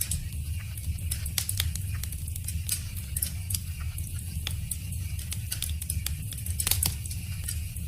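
Wood fire crackling: irregular sharp pops and snaps of burning wood over a steady low rumble of flame, with a couple of louder snaps about two thirds of the way through.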